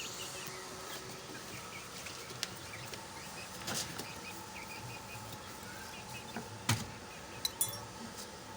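Chicks cheeping softly over a steady background hum, with a few sharp knocks, the loudest about seven seconds in.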